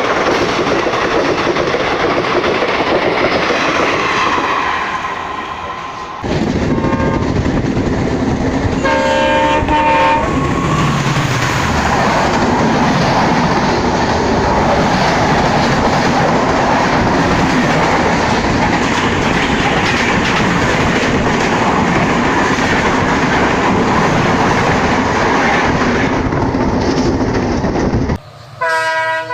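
Trains hauled by EMD diesel locomotives passing at speed, with steady noise of wheels and coaches on the track. The noise of one pass fades, then a new, louder pass begins abruptly about six seconds in. A locomotive horn sounds about nine seconds in and again near the end.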